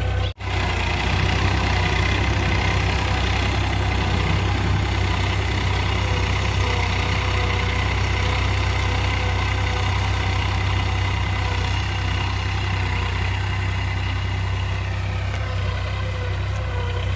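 Massey Ferguson 7250 DI tractor's diesel engine running steadily at an even pitch. The sound cuts out for an instant just after the start.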